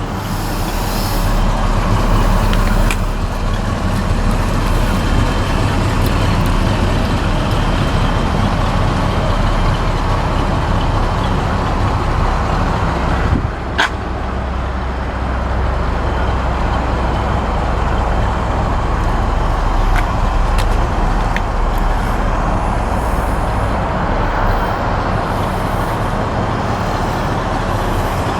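1966 Chevy C-10 pickup with its 350 V8, driving: a steady engine rumble and road noise from inside the cab. About halfway through it dips briefly with a single click.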